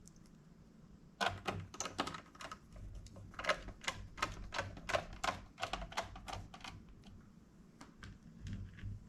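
Quick run of small, hard clicks and taps, about four a second, from laptop parts and screws being handled during disassembly. It starts about a second in and stops near seven seconds, leaving a few faint taps.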